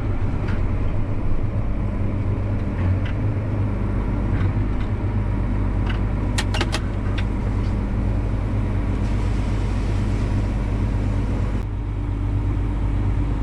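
Farm tractor engine running steadily, heard from inside the cab, with a quick run of sharp clicks about halfway through and a change in the engine note near the end.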